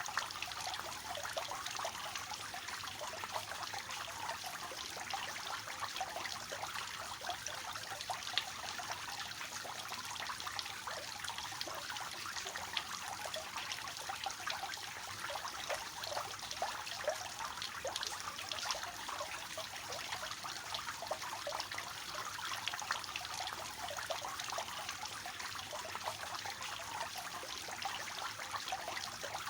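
Water falling from a three-tier cascading fountain: a steady, soft splashing and trickling with many small splashes in it.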